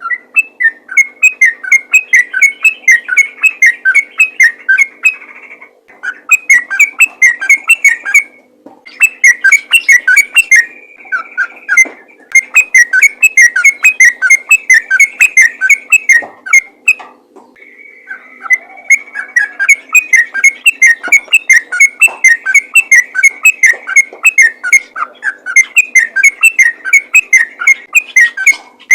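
Yellow-vented bulbul singing a fast, rapid-fire song of many short clear notes, several a second, in long runs broken by a few brief pauses. This is the vigorous 'ropel' fighting song that keepers use to provoke other bulbuls into singing.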